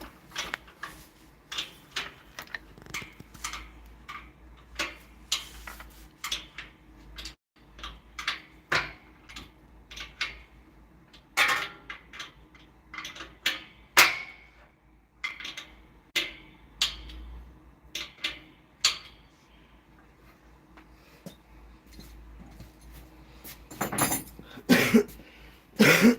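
Hand work on a machine's parts: irregular clicks, taps and light metallic clatter, with a cluster of louder knocks near the end.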